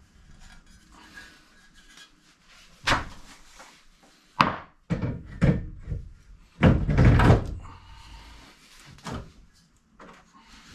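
A series of heavy metal clunks and knocks from hands-on work on car parts, several in quick succession around the middle, with the longest and loudest clunk a little after halfway.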